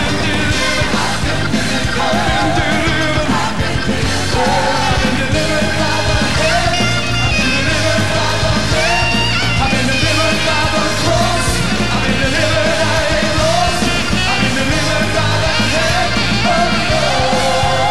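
Loud, upbeat live church band music with singing and shouting voices over it.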